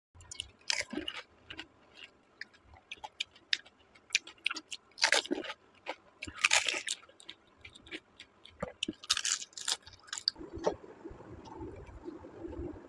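Crisp fuchka (pani puri) shells being bitten and chewed close to the microphone: a run of sharp crunches and wet chewing. The crunching stops near the end and a steady low rumble of background noise takes over.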